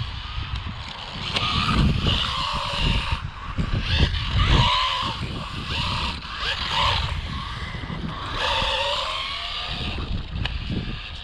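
Electric motor of a 1/12-scale RC buggy whining up and down in repeated bursts of throttle, with tyres scrubbing on concrete and a few knocks near the end.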